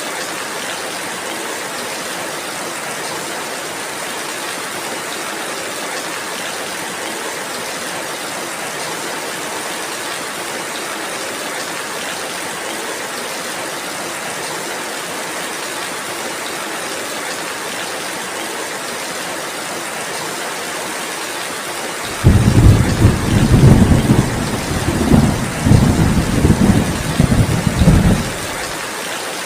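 Steady rainfall with a loud, rolling rumble of thunder that comes in about three-quarters of the way through, swells in several pulses for about six seconds, and then stops abruptly.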